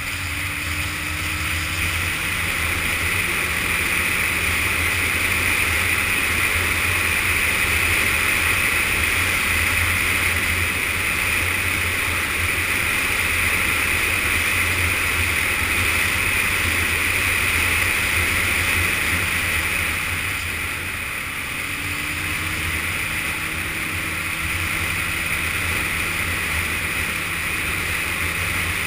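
Yamaha FZS600 Fazer's inline-four engine running under way, with strong wind noise over the microphone. The engine note climbs near the start, eases with a brief drop in level about two-thirds of the way through, then climbs again.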